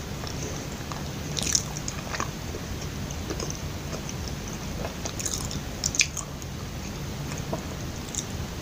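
Close-miked chewing of soft, sticky glutinous-rice kuih, with scattered wet mouth clicks; the loudest come about a second and a half in and about six seconds in. A steady low hum lies underneath.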